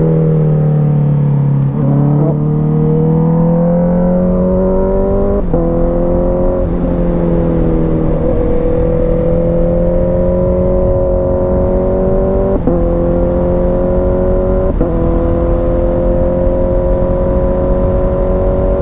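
Sport motorcycle engine pulling steadily under way, its note climbing and briefly dipping at about six gear changes, over a low rush of wind.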